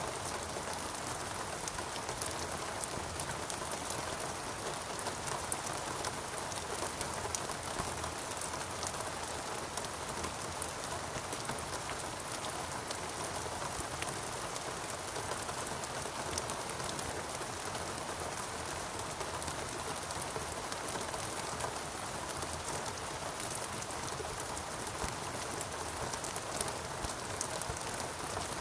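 Steady rain falling in a rainforest, a dense even hiss with many small drop ticks.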